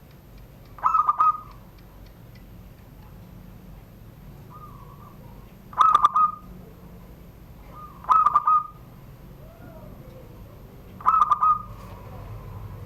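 Zebra dove (perkutut) singing its cooing song in the 'surung gdor' style: four short phrases of quick trilled notes, a few seconds apart, with softer coos between.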